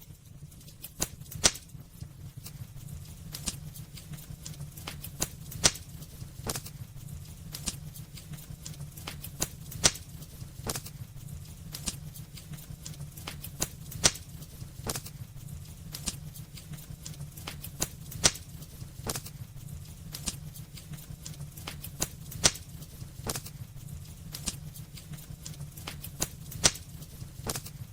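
Wood burning in a fireplace, crackling with many small irregular snaps and a louder pop about every four seconds, over a steady low rumble of the flames.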